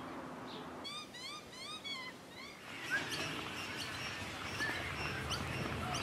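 Wild birds calling: a quick run of short, rising-and-falling whistled chirps, then scattered single chirps over steady outdoor background noise.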